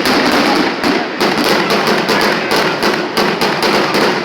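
Fireworks finale: many shells bursting in quick succession, overlapping bangs and crackling with no pause between them.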